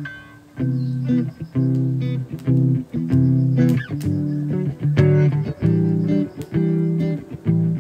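Guitar playing chords in a steady rhythm, the instrumental opening of a song; the chords come in about half a second in.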